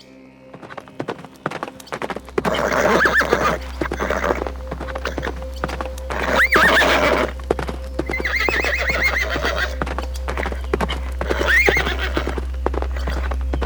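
Horse neighing about four times, with hooves clip-clopping between and under the calls.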